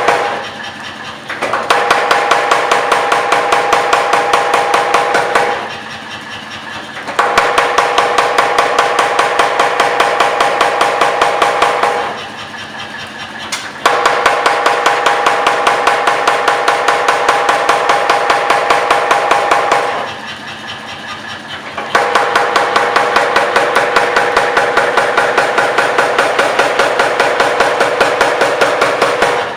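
Power hammer pounding a steel bar in fast, even runs of about five or six blows a second, with a steady metallic ring. The runs break off four times for a second or two, leaving only a lower hum.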